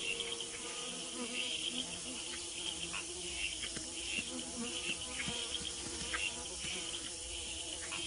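Rainforest insects buzzing and chirring steadily in a dense high chorus that pulses unevenly, with scattered faint clicks.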